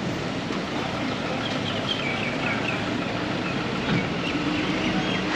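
Steady vehicle or road noise, with a bird giving a quick run of about half a dozen short chirps about a second and a half in.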